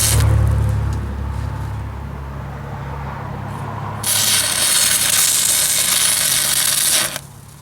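Stick welding arc from a Miller Syncrowave 210, a crackling, frying hiss. One arc breaks off right at the start and a second is struck about four seconds in, burns for about three seconds and cuts off suddenly as the rod is pulled away. A steady electrical hum from the welder runs underneath.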